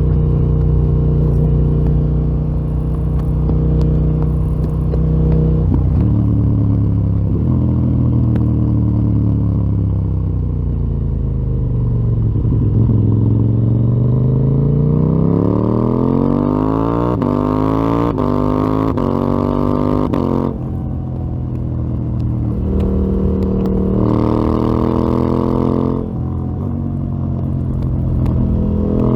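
KTM 890 Duke R's parallel-twin engine through a full Akrapovič exhaust, ridden on the road: steady cruising, then the revs fall away for about six seconds before climbing again in steps, with short breaks in the sound at each upshift through several gears.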